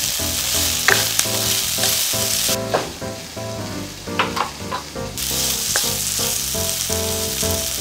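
Squid and vegetables sizzling as they are stir-fried in chili-paste sauce in a nonstick pan, with a few sharp strokes of a wooden spatula against the pan. The sizzle thins for a couple of seconds in the middle, then picks up again. Background music plays throughout.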